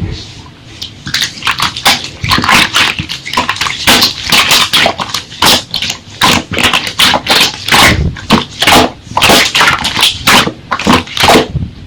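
Slime being squeezed and kneaded by hand, giving quick, irregular wet clicks and pops, several a second.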